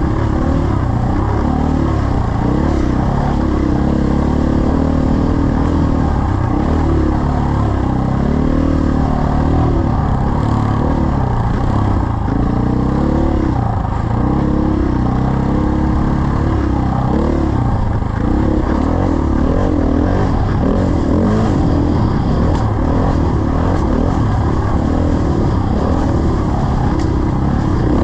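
Dirt bike engine running under way, its pitch rising and falling as the throttle opens and closes.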